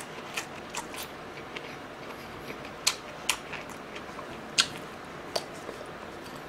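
Close-miked chewing of a mouthful of lettuce wrap with marinated pork rib, garlic and pickled chives: a run of short, sharp, wet mouth clicks and crunches, loudest about three and four and a half seconds in.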